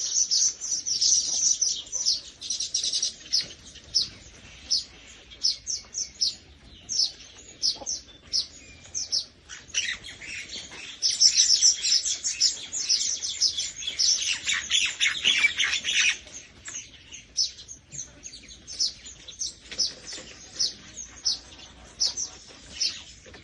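Birds chirping: a rapid run of short, high chirps, busiest near the start and again in a thick burst about halfway through, then thinning to scattered single chirps.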